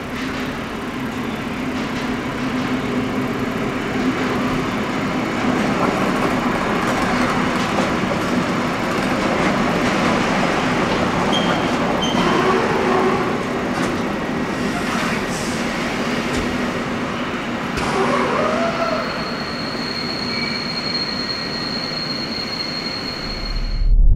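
Freight train hauled by a V100 diesel locomotive rolling through the station, a dense rumble of wheels and wagons over a steady low hum that slowly grows louder. Short high squeals come from the wheels now and then, with a longer one near the end.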